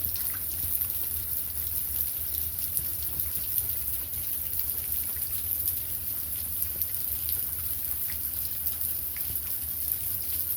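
Heavy rain falling steadily, a constant hiss with many small drop ticks.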